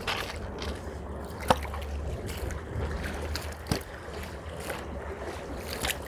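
Footsteps crunching along a trail, a sharp step about every second, over a steady low rumble of wind buffeting the microphone.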